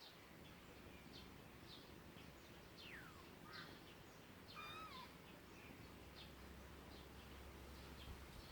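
Faint outdoor bird chirps over a quiet background: many short high chirps, a falling whistle about three seconds in and a short wavering call a little later, with a faint low hum in the second half.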